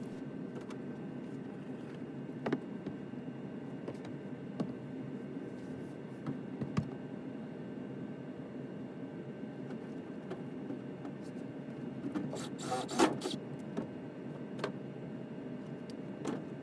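Gas furnace blower running with a steady hum, with scattered light clicks and a brief rattle of handling about 13 seconds in.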